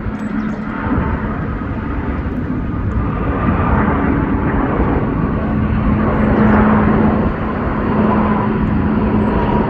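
Jet airliner's engines passing on takeoff or landing: a loud, dense rushing noise with a steady low hum and a fainter higher tone, slowly growing louder.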